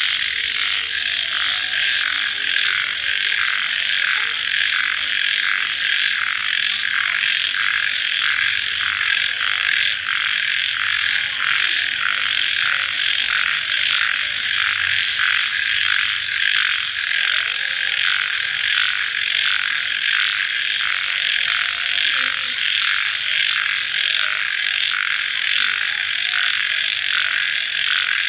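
Dense night chorus of calling crickets, a continuous shrill trilling that pulses evenly a few times a second, in the wet stillness just after rain.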